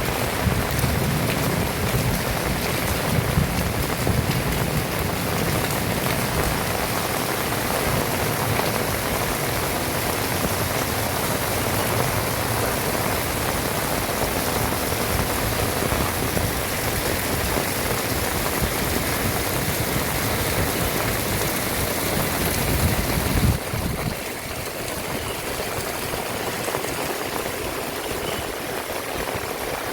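Heavy rain falling steadily, a dense even hiss of drops. About three-quarters of the way through it drops a little in level and loses its low rumble.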